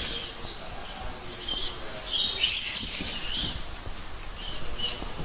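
Birds chirping, with clusters of short high calls with quick rising and falling glides through the middle. A single sharp smack comes at the very start.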